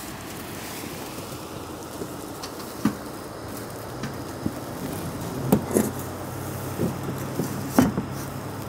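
Several short metallic clinks and knocks of cookware and utensils being handled at a portable gas stove, over a steady rushing background, with a low hum coming in about halfway through.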